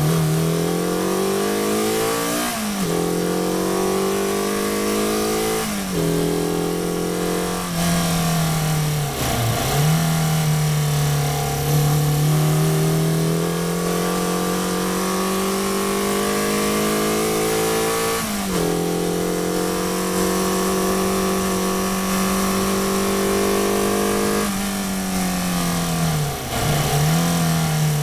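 Caterham 420R's 2.0-litre Ford Duratec four-cylinder engine pulling hard through the gears. The pitch rises, then drops back at upshifts about 3 and 6 seconds in, and again near 18 seconds. There is a long steady pull in between, and dips with downshifts around 9 seconds and near the end. Wind rush over the open cockpit runs underneath.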